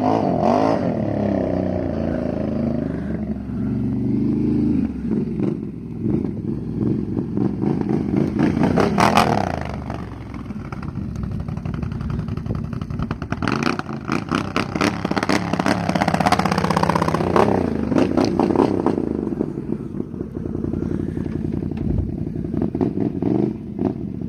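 Can-Am 1000 XT's V-twin engine through a Two Brothers aftermarket exhaust, revving up and down repeatedly. It is loudest about nine seconds in and again from about fourteen to seventeen seconds in.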